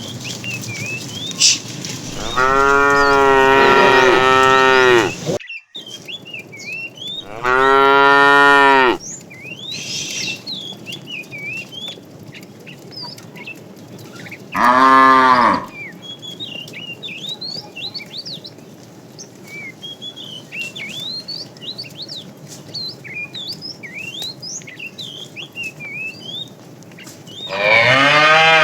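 Cattle mooing: four loud, drawn-out moos, the first about three seconds long and the last starting near the end. Small birds chirp in the gaps between them.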